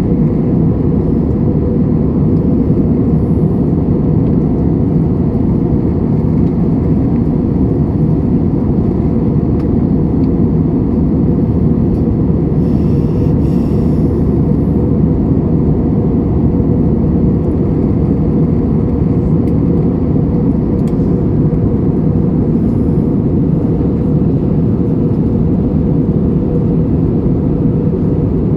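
Steady low rumble of an Airbus A320-200 in flight, engine and airflow noise heard inside the passenger cabin.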